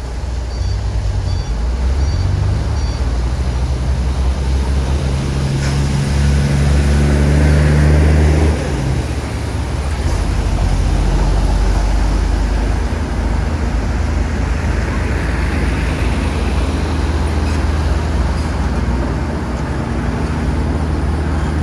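Bulldozer's diesel engine running steadily under load. It grows louder for a few seconds, then drops suddenly about eight and a half seconds in and settles back to a steady run.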